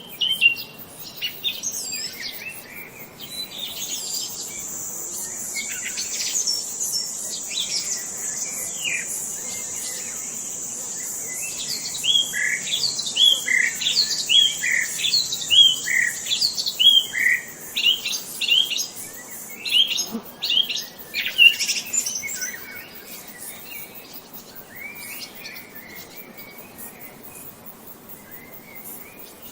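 Songbirds singing and chirping, with a run of quick repeated short notes in the middle. A steady high buzz runs under them from about four seconds in until about twenty seconds in.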